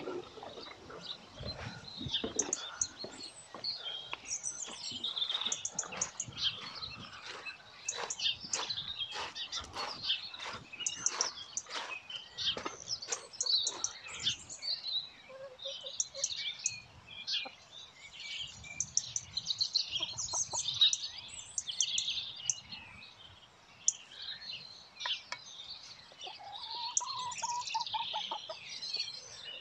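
Small birds chirping and singing throughout, with a run of sharp clicks and crunches over the first half. A hen gives a short call near the end.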